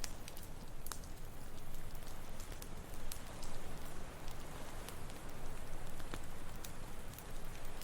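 Wood campfire crackling, with scattered sharp pops, over the steady wash of ocean surf.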